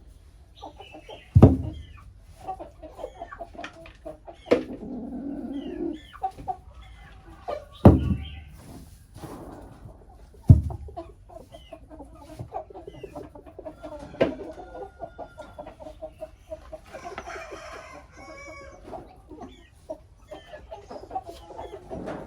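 Chickens clucking with many short calls throughout, broken by a few sharp, loud knocks.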